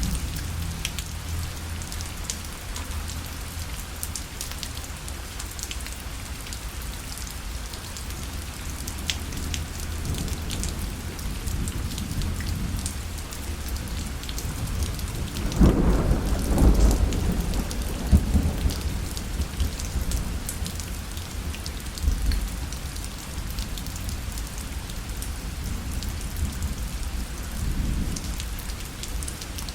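Steady rain falling on a parasol, an even patter with scattered sharp drop ticks. About fifteen seconds in, a low roll of thunder rumbles for a few seconds, with fainter rumbles later.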